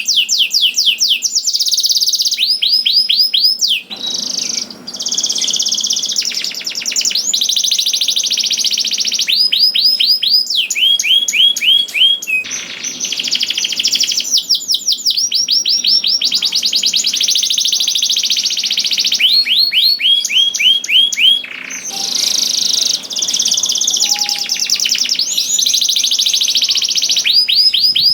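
Domestic canary singing continuously: fast trills of quickly repeated falling notes, switching to a new phrase every second or two.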